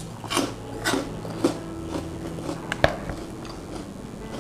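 A crisp rice cracker being bitten and chewed: a series of dry crunches about every half second, the sharpest near three seconds in.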